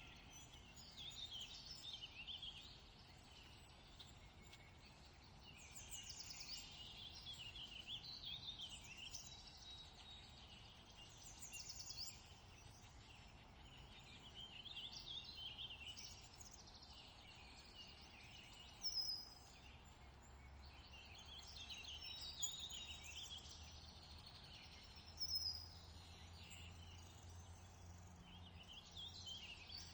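Faint songbirds singing in repeated short chirping, trilling phrases, with three sharper high calls in the second half. A low steady hum comes in about two-thirds of the way through.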